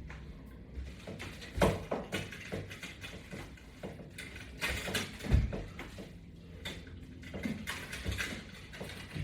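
Resistance-band straps and their clips being handled and fastened: scattered clicks, knocks and rustling, with a thump about a second and a half in and a louder one about five seconds in.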